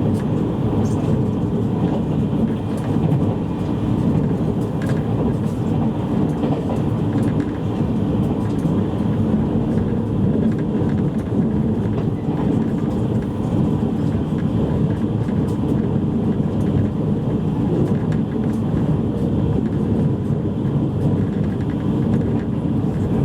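Cabin noise inside a JR East E653 series electric train: a steady rumble of the car and its wheels on the rails, with a faint steady whine and scattered light clicks.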